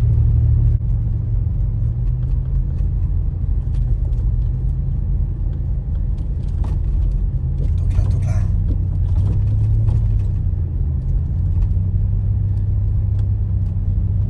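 Steady low rumble with scattered faint ticks and a brief crackle about eight seconds in.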